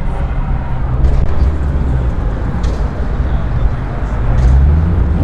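Car engine rumbling at a low, steady note, swelling louder about four and a half seconds in.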